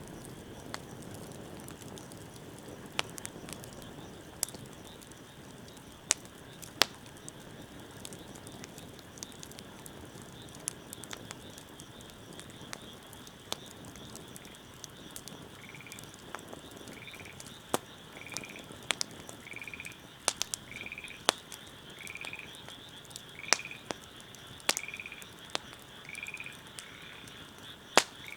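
Wood fire burning with a low rush of flame and scattered sharp pops and crackles. From about halfway in, an animal calls over it in a steady series of short notes, about one a second.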